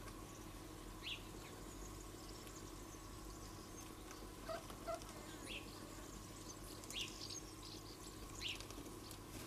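Four short, high bird chirps spread a second or more apart, over a faint steady background hum.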